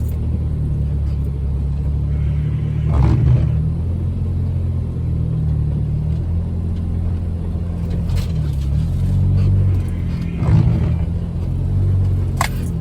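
Jeep Wrangler's engine running steadily at low revs, heard from inside the cab while it drives a snowy trail. A couple of thumps and rattles come from the body over bumps, about three seconds in and again near ten seconds.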